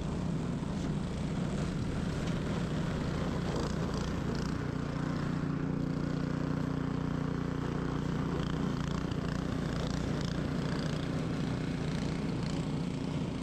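Ariens 21-inch professional snow blower engine running steadily under load, its pitch shifting slightly about four to five seconds in.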